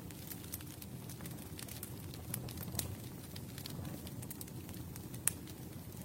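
Campfire burning with a low steady rumble and frequent sharp crackles and pops of burning wood, one louder pop about five seconds in.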